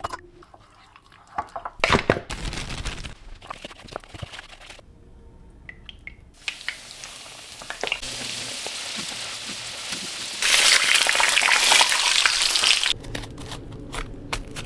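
Flour-dredged rabbit pieces frying in a pan of hot oil: a steady sizzle that gets louder about ten seconds in and stops suddenly near the end. Before it, light kitchen clicks and clatter, with a fork whisking eggs in a ceramic bowl.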